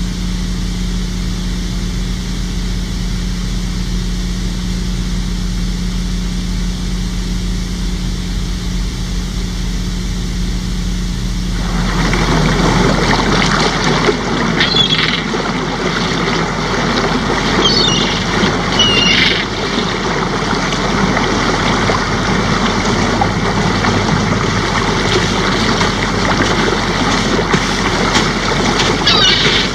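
A steady low hum for about twelve seconds, then a steady rushing noise like wind and surf, with a few short high chirps.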